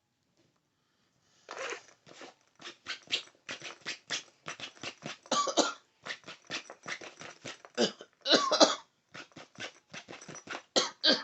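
Rapid, irregular fingertip and nail tapping and clicking for ASMR, several sharp clicks a second, starting about a second and a half in. There are denser, louder flurries around the middle and near the end.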